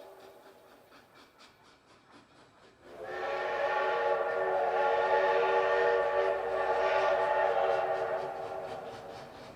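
Train whistle sounding one long chord of several steady tones from about three seconds in, fading out near the end. Before it comes a faint rapid clacking of train wheels running over rail joints.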